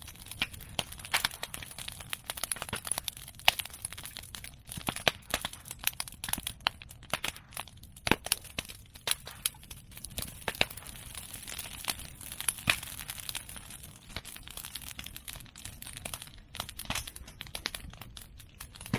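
Bonfire of cut medake bamboo and chestnut prunings crackling steadily, with many irregular sharp pops and snaps, a few of them much louder than the rest.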